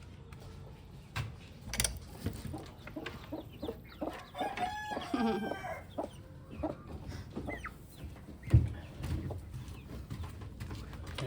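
A rooster crowing once, about four seconds in, among chickens clucking, with scattered knocks and one sharp thump about three-quarters of the way through.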